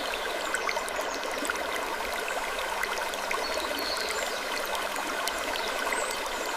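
Steady rushing of running water, with scattered small ticks and a brief high creak about four seconds in.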